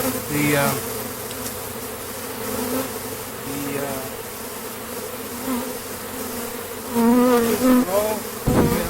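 Honeybees from a strong colony humming steadily around the open hive, a mass of wingbeats holding one low, even drone. A brief thump comes near the end.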